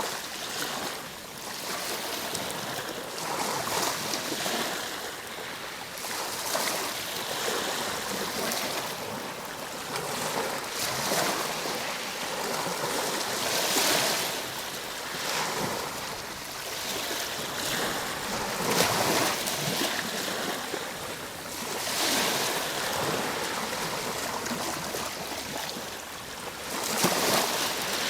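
Ocean waves breaking and washing on a shore, a continuous rushing that swells and eases every few seconds.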